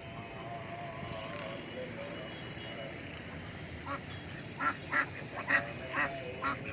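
Domestic ducks quacking: a quick run of about seven loud quacks in the second half, over a fainter wavering call.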